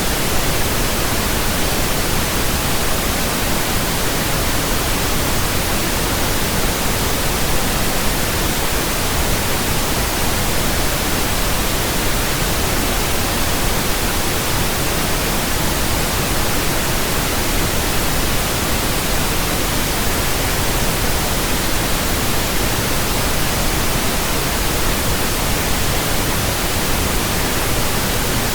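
Pink noise from a signal generator: a steady, even hiss across the whole range with no change, played as a burn-in track for speakers and earphones.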